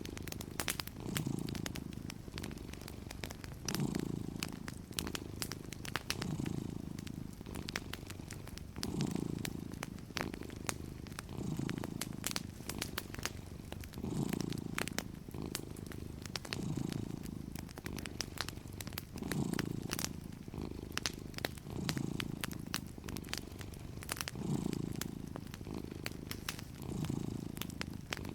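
Cat purring, swelling and fading in a slow, regular rhythm with its breathing, with wood-fire crackles and small pops scattered over it.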